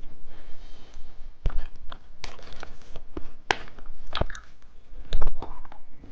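Plastic candy packaging being handled and opened: crinkling and tearing with scattered sharp clicks.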